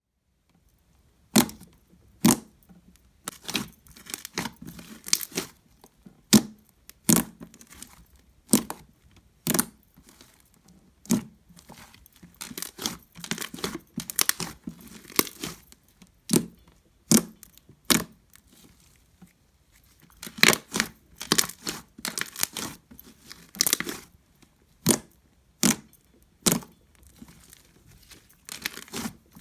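Thick homemade glue slime, full of air bubbles, being squeezed and stretched by hand: irregular sharp clicks and crackling pops, several a second in places.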